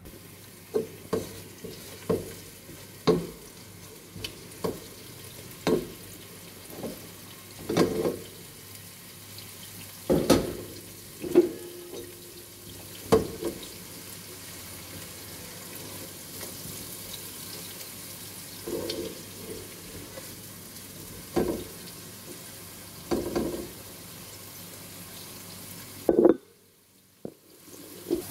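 Garlic and chopped greens frying in oil in a saucepan, a steady sizzle, with irregular knocks and clatter of a utensil against the pan every second or two. Near the end a loud knock is followed by a brief drop to near silence.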